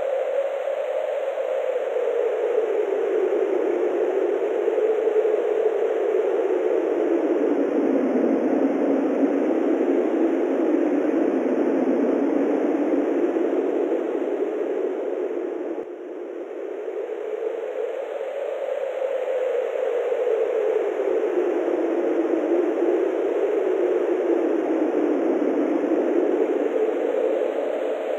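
Wind blowing in a steady whoosh whose pitch slowly sinks and rises again, twice over, with a brief drop in level about halfway through.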